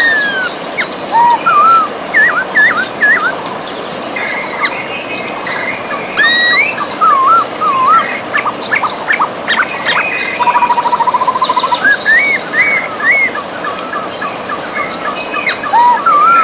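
Several songbirds singing and calling over the steady rush of a river: short whistled, slurred notes, high chips, and a fast trill about ten seconds in.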